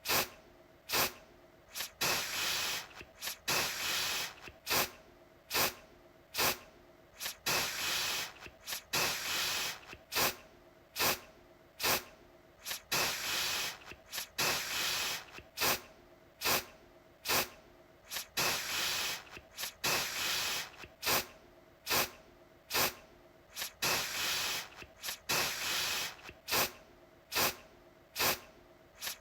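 Aerosol deodorant can spraying in short repeated spurts, about one a second, each a sharp-edged hiss that trails off.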